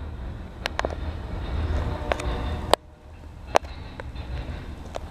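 Norfolk Southern intermodal freight train approaching, its diesel locomotives making a steady low rumble. Several sharp clicks sound over it, the loudest about a third and two-thirds of the way through.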